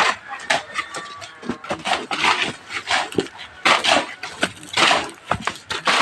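Irregular clinks and knocks of hand tools on construction work, a dozen or so sharp strikes spread unevenly, with short scraping sounds between them.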